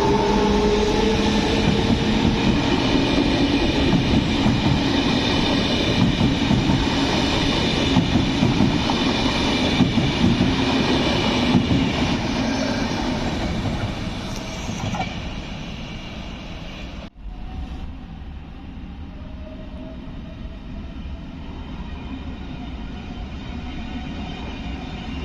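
Electric train running through a station on steel rails, loud and close, its noise fading away after about fourteen seconds. After a sudden cut, a quieter train is heard with a faint rising whine.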